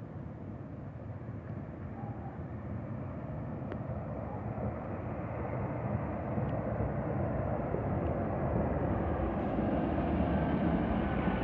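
Scania K440 double-decker coach's diesel engine and tyres growing steadily louder as the coach approaches, loudest near the end.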